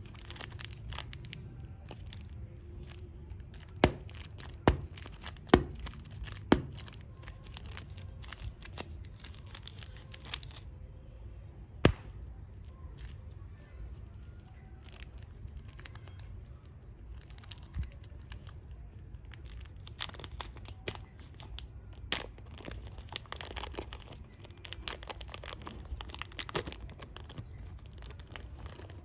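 Super clay packaging being unwrapped by hand: plastic crinkling and tearing, with a handful of sharp clicks early on and denser crinkling in the last third.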